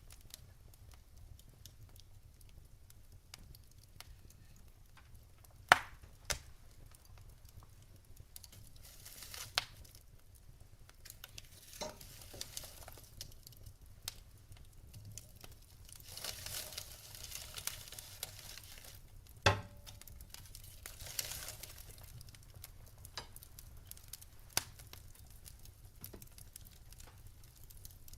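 Fire burning in a fireplace: soft crackling with scattered sharp pops, two louder ones about 6 and 19 seconds in, and brief swells of hiss from the flames.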